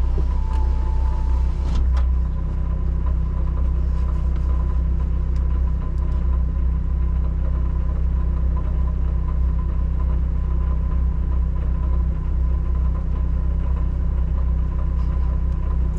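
Rally car engine idling steadily, heard from inside the cabin: a constant low rumble with a thin steady whine above it.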